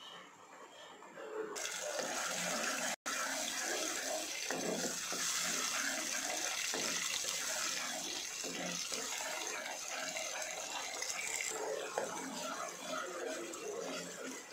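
A red puree sizzling in hot oil in a non-stick pan while a metal spatula stirs it. The steady sizzle starts about a second and a half in and cuts out for an instant near three seconds.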